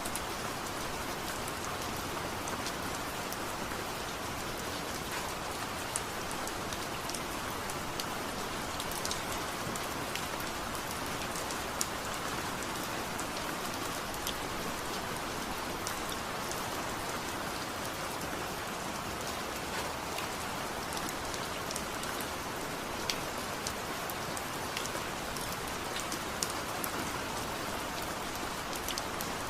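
Steady rain falling, a continuous hiss with frequent small sharp ticks of drops scattered through it.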